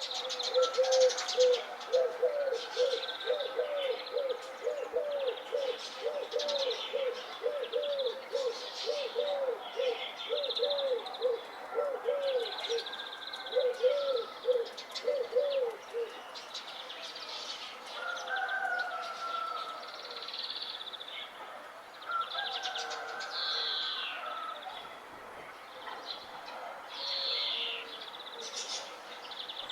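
Several birds chirping and singing in high, short phrases throughout. A lower bird repeats a short arching call about twice a second for the first half, stopping about 16 seconds in.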